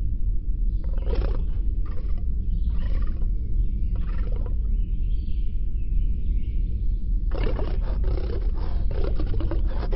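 Rasping roars or growls in several short bursts, then a longer run of them in the last few seconds, over a steady low rumble.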